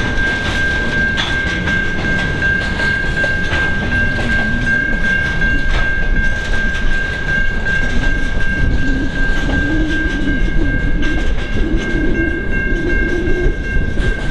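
Train rolling past close by, wheels clicking over the rails, with a steady high-pitched squeal running over the rumble.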